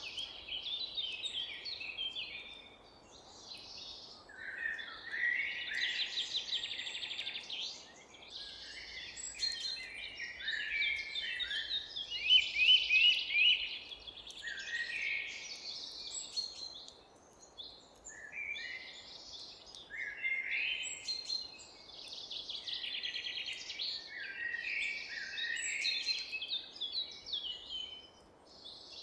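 A chorus of forest songbirds singing and chirping, with several birds' phrases overlapping and rapid trills among them, over a faint steady background hiss.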